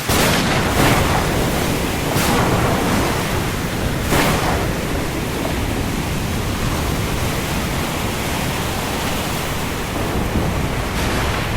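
Steady hiss of heavy rain falling on the open sea, with the wash of the water underneath and a few brief louder swells in the first four seconds.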